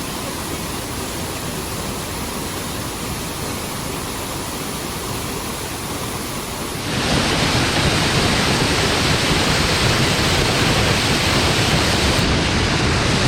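Waterfall heard from right beside the falling water: a steady rush of water that gets louder about seven seconds in.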